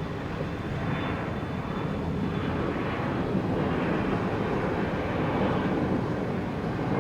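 Electric train running past, a steady rumble of wheels on rail that grows slightly louder in the second half.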